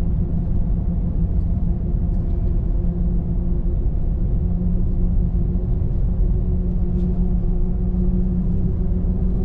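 Steady road and engine drone heard inside a Ram pickup's cab while driving at a constant speed, with a low, even hum.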